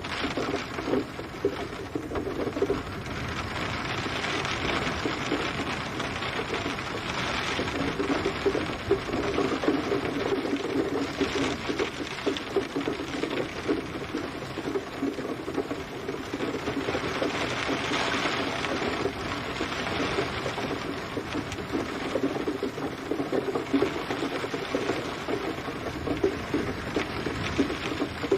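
Steady rain pattering densely on a surface, with many individual drop hits standing out from the even wash of noise.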